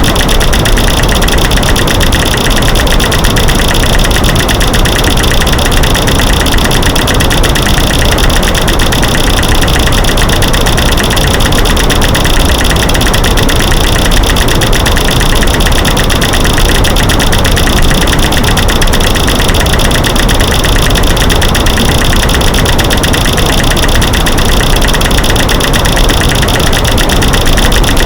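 Loud, steady mash of rapid overlapping clicks and knocks, made from light switches clicking, sticks snapping and rocks banging together, over a white noise hiss.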